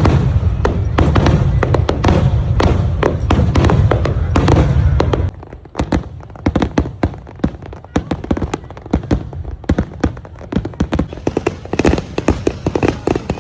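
Fireworks going off: heavy low booming with a dense crackle for about five seconds, then an abrupt drop to lighter, rapid crackling pops that continue to the end.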